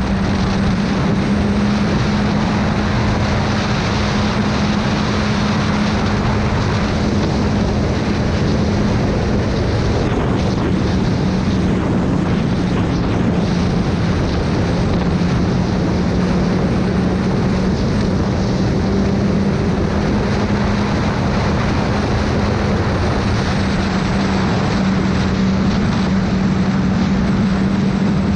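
Motorcycle riding at a steady cruising speed: the engine holds one steady pitch under loud rushing wind and road noise.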